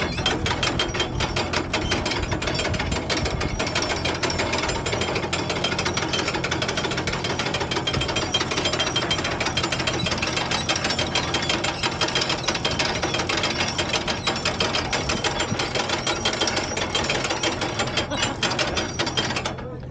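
Sail hoisted by cranking a hand winch, its ratchet pawl clicking rapidly and without a break until it stops shortly before the end. A steady low hum runs underneath.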